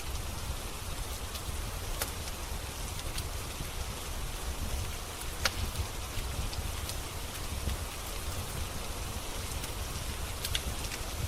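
Steady rain with a deep rumble underneath, and scattered sharp crackles from a wood fire. The sharpest crackle comes about five and a half seconds in.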